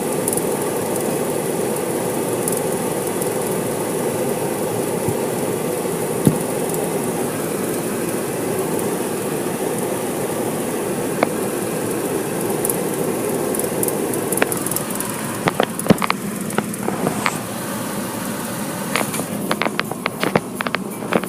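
Car wash equipment running with a steady rushing noise; about two-thirds of the way through it eases off and scattered sharp taps and clicks follow.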